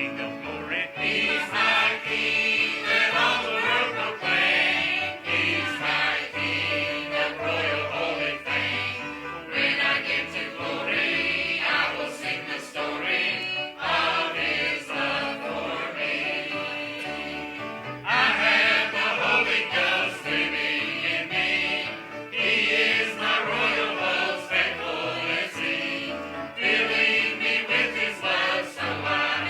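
Church choir singing a hymn over an instrumental accompaniment with a moving bass line.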